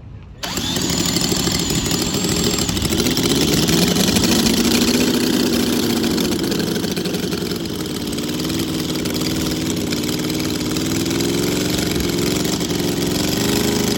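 A car engine, built up by its owner from a bare block, comes in loudly about half a second in, rises in pitch as it is revved, then settles to a steady idle.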